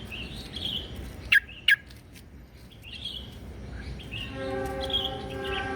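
Short bird chirps repeating, from a trucukan (yellow-vented bulbul) stimulation recording. Two sharp clicks come about a second and a half in. From about four seconds a steady held tone with several pitches joins in.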